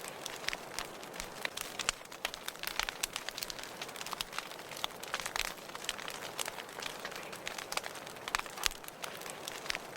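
Wood fire in a fireplace crackling: a steady soft hiss with irregular sharp pops and snaps, a few louder than the rest.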